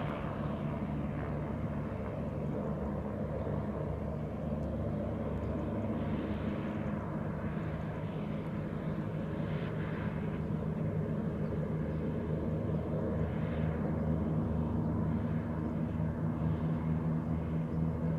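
A Canadair CL-215 water-bomber flying boat's engines and propellers drone steadily, growing a little louder in the second half.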